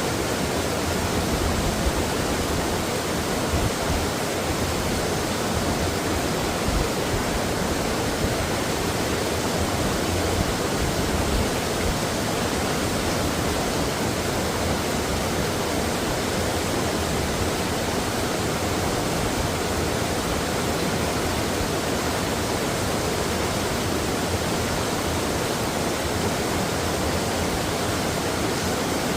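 Mountain stream water rushing and splashing over rocks, a steady full-range noise without letup.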